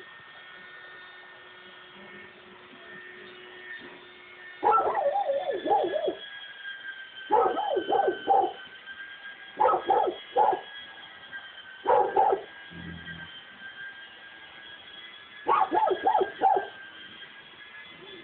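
Dog barking in five bursts of several quick barks each, with pauses of a couple of seconds between them; the first burst comes about four and a half seconds in.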